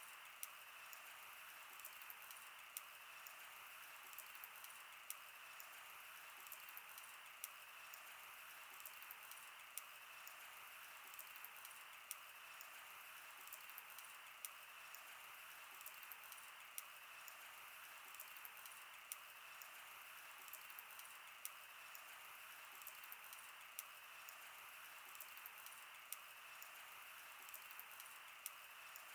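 Wood fire crackling: irregular sharp snaps and pops over a soft, steady hiss.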